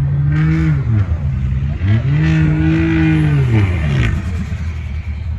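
Diesel truck engine revving: held at high revs, dropping back about a second in, revving up again and holding, then falling back off throttle about four seconds in.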